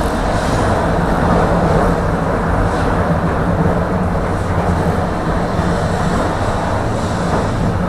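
Tram running along the track between stops, heard from inside the car: a steady rumble of wheels on rails with a low motor hum.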